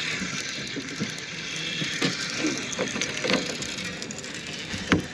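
Fishing reel being cranked to bring in line: a steady whirring from the reel's gears with scattered light clicks.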